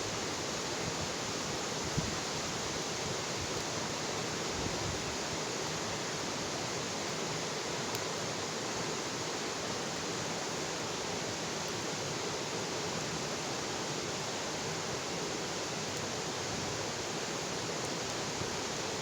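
Bonfire burning with a steady rushing hiss and a few faint pops from the wood.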